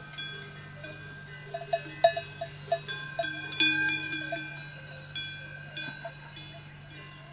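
Clinking, bell-like tones, many short strikes with a quick run of them about two seconds in, over a steady low hum.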